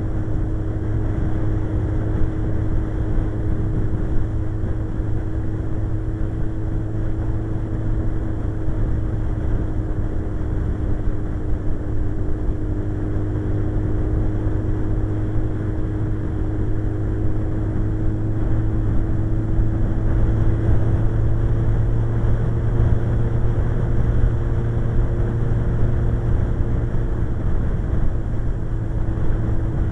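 Suzuki GSX-R 1100 inline-four motorcycle engine running at a steady cruise, with wind rushing past. The engine note drifts only slightly in pitch, rising a little about two-thirds of the way through.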